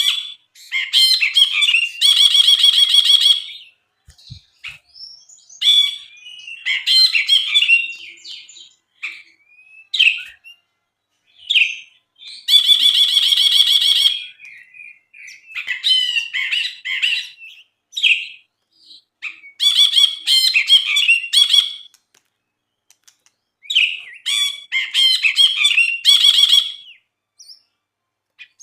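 Brinji (bulbul) singing vigorously in repeated bursts: quick whistled and chattering phrases broken by short pauses, with harsh buzzy rattles, the longest near the start and about halfway through.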